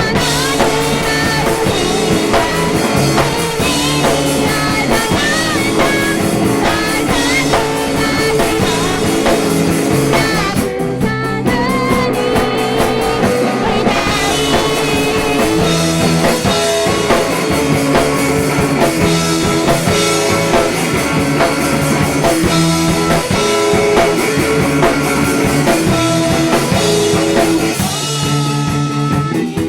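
Small indie-pop rock band playing live: a woman singing over electric guitar and drum kit. The cymbals and other high sounds thin out briefly about eleven seconds in.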